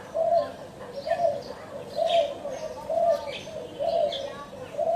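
Spotted doves cooing in a regular series, about one low coo a second. Short, higher-pitched chirps from other birds sound over them.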